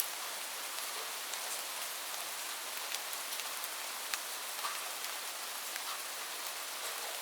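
Steady rain: an even hiss with scattered sharp ticks of single drops striking a hard surface.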